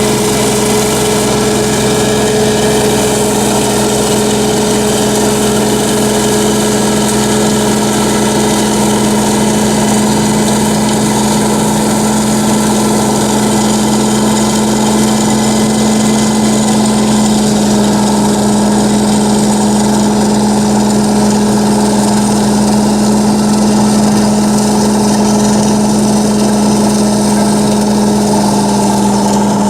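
Solis 26 HP compact tractor's three-cylinder Mitsubishi diesel running steadily under a constant throttle, with a strong steady hum; the pitch drops slightly a little past halfway.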